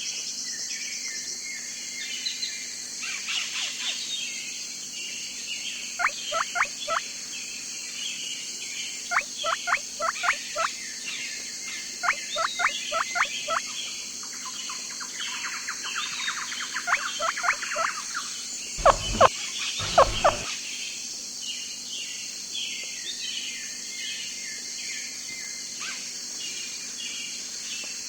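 Birds calling and chirping over a steady high-pitched buzz, with several quick runs of sharp repeated calls and two or three louder, fuller calls about two-thirds of the way through.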